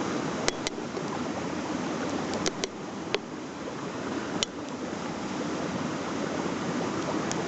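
Wood campfire crackling, with a handful of sharp pops at irregular moments, over the steady rush of a stream.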